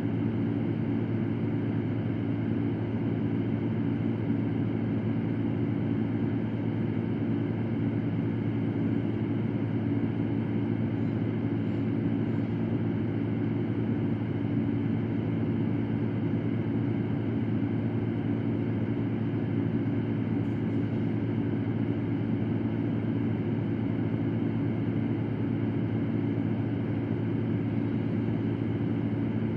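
Electric fan running steadily, a constant low whooshing hum with no change in speed.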